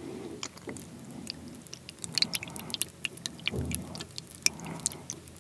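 Chopsticks stirring buckwheat noodles in a bowl of cold soba broth: wet sloshing and many short clicks, growing busier from about two seconds in.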